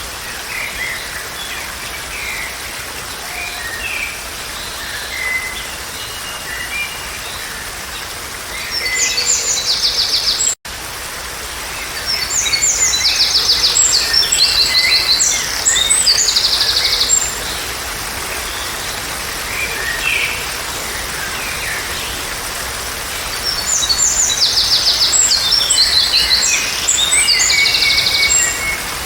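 Songbirds calling over a steady background hiss, with scattered short chirps and several loud, fast trills, three bouts of them lasting a few seconds each. The sound drops out for an instant about ten seconds in.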